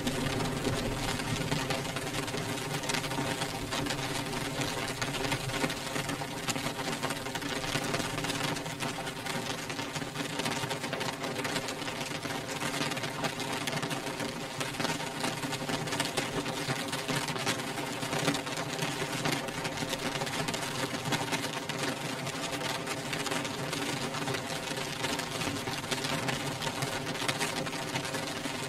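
Rain beating on window glass: a dense, steady patter of drops on the pane, with a faint steady hum underneath.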